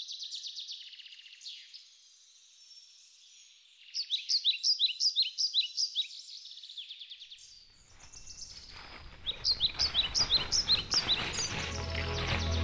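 Forest birds calling: repeated short high chirps in quick series, coming and going in spells. From about eight seconds in, footsteps rustling through dry leaf litter rise beneath them, and music begins to fade in right at the end.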